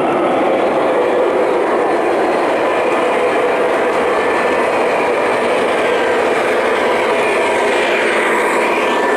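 O scale model train running along three-rail track, a steady rolling rumble of metal wheels on the rails with a faint motor whine.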